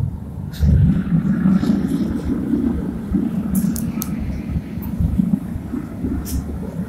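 Gas-fired melting furnace burner running with a steady low roar, broken by a few sharp clicks.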